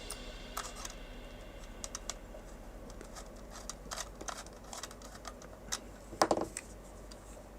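Scattered small clicks and taps of hard-drive trays, SSDs and screws being handled and fitted into a NAS, with a louder knock about six seconds in.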